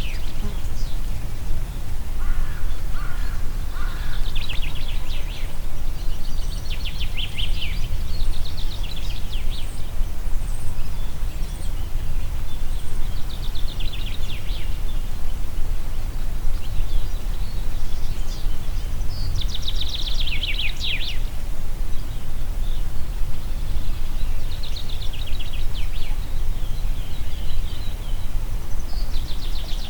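Wind making a steady low rumble in a forest, with birds calling over it. Short, rapid trilled phrases come every few seconds, the loudest about two-thirds of the way through.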